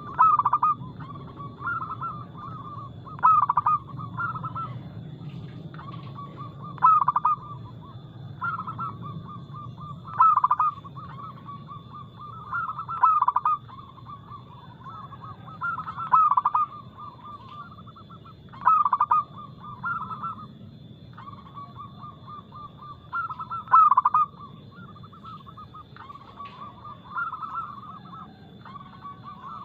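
Zebra dove (perkutut) cooing: a loud coo phrase about every three seconds, with softer cooing between the phrases.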